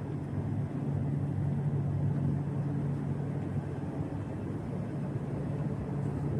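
Steady low drone of a cruise ship's machinery on an open upper deck: a constant hum with a low tone, with some wind on the microphone.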